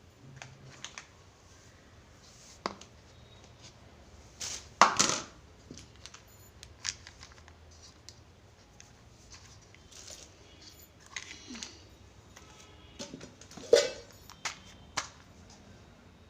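Kitchen containers and plastic covers being handled: scattered knocks, clicks and rustles, with two louder knocks about five seconds in and near the end.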